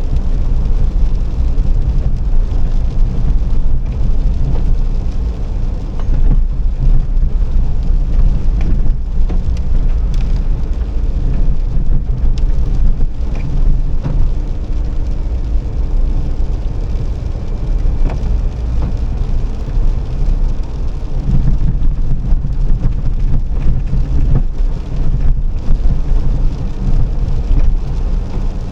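A car being driven: a loud, steady low rumble of engine and road noise, with occasional short knocks.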